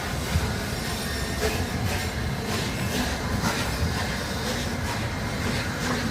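Train running on the track: a steady low rumble with irregular sharp clicks from the wheels and rails.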